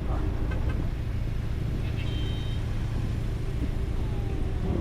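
A car engine running steadily with a low, even rumble and hum. A brief high tone sounds about two seconds in.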